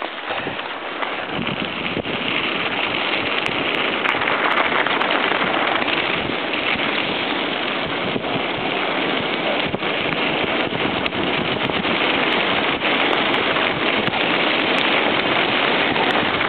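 Steady rushing noise of a mountain bike being ridden: wind on the camera microphone and tyres rolling, building up over the first couple of seconds as the bike gathers speed, with a few faint clicks.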